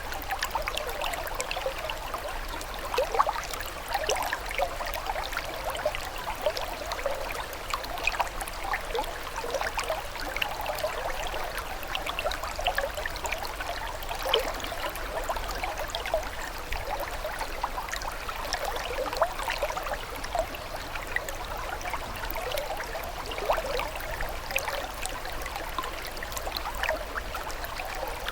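Running water trickling steadily, with a continuous rush and many small, irregular splashes.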